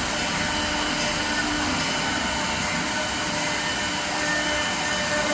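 Wood CNC router running, a steady whine with a rushing noise under it.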